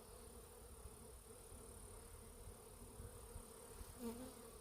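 Faint, steady buzzing of many honeybees flying around their hive, with a brief louder buzz near the end.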